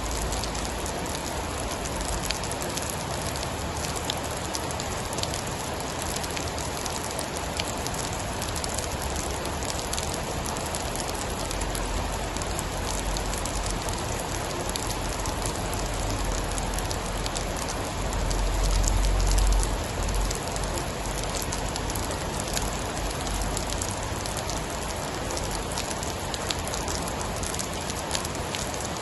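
Steady heavy rain with scattered sharp drop ticks. A deep rumble of distant thunder builds about a third of the way in, swells to its loudest about two-thirds through, then fades away.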